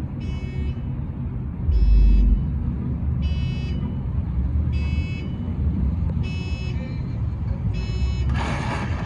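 An electronic alarm beeping: six half-second beeps, about one every second and a half, over the low rumble of car engines running. A short hiss comes near the end.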